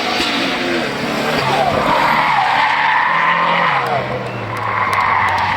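Historic rally car engine revving hard through a corner, its pitch rising and falling as the throttle is worked, loudest in two high-revving stretches about two seconds in and near the end. A few sharp clicks come near the end.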